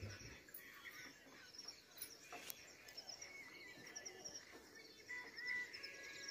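Faint outdoor birdsong: scattered chirps and a rapid high trill over a low ambient hiss.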